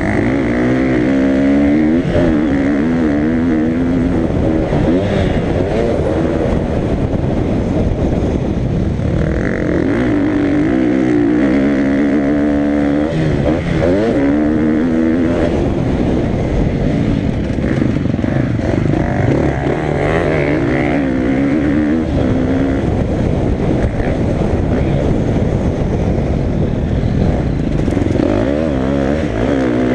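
Motocross dirt bike engine revving hard and continuously, its pitch climbing and dropping over and over as it accelerates and eases off around the track.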